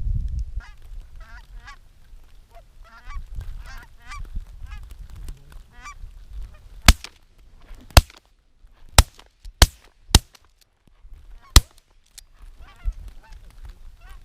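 Canada geese honking in a string of calls, then six shotgun shots in about five seconds, the loudest sounds, with more honking near the end.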